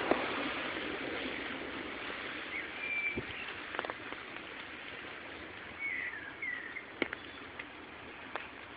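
Outdoor ambience after rain: a steady rushing background that eases off slightly, with a few short bird chirps and several sharp ticks.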